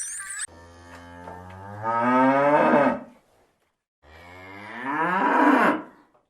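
A cow mooing twice: two long calls, each growing louder and rising in pitch before breaking off.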